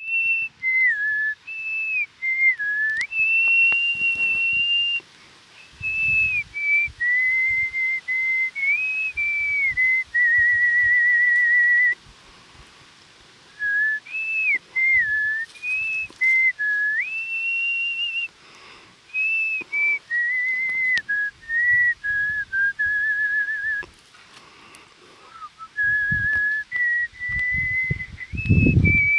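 A person whistling a slow melody in phrases of held notes with short pauses, one note warbled about ten seconds in. A few low thumps near the end.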